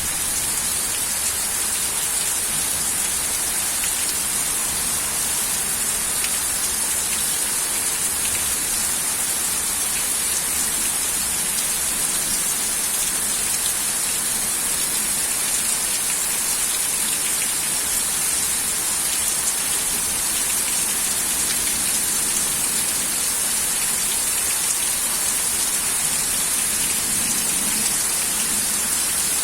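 Steady heavy rain falling, a continuous even hiss without letup.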